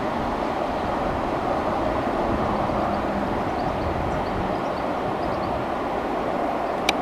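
Train passing on the line, a steady rumble of wheels on rails, with two sharp clicks right at the end.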